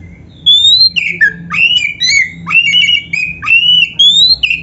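Oriental magpie-robin singing loudly: a run of clear whistled phrases with rising slurs and repeated notes, beginning about half a second in.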